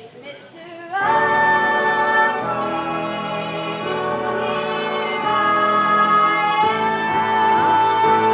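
Music with a female voice singing long, held notes over an accompaniment, starting about a second in.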